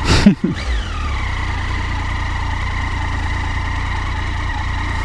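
Motorcycle engine idling steadily at a standstill. A brief voice sound and a short burst of noise come right at the start, and a falling tone follows within the first second.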